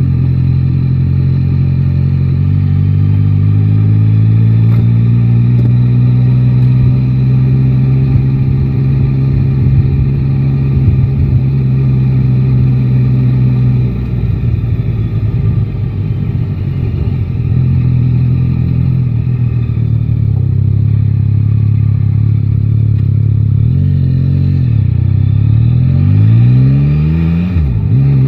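Yamaha Tracer 9 GT's three-cylinder engine running under way at a steady cruise, with road and wind noise that takes over for a few seconds around the middle. Near the end the engine revs rise in several quick sweeps, each dropping back before climbing again, as the bike accelerates.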